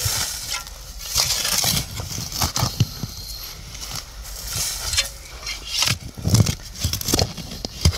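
Spade digging in forest soil around a buried metal sign: repeated scraping and crunching strokes with a few dull thuds.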